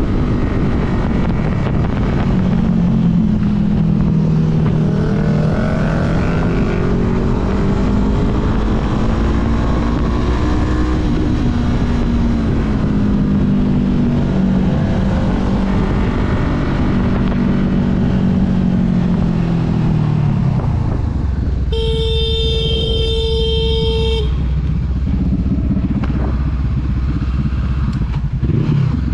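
Honda CB500F's parallel-twin engine running under changing throttle while riding, its pitch rising and falling with wind rush. About twenty seconds in the revs fall away as the throttle closes, and a vehicle horn sounds one steady note for about two seconds.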